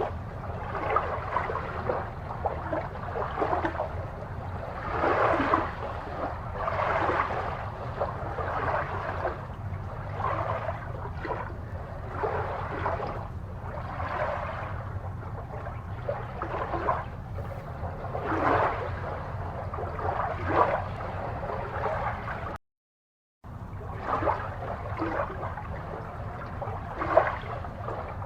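Water gurgling and bubbling in irregular swells over a steady low hum, cutting out briefly to silence late on.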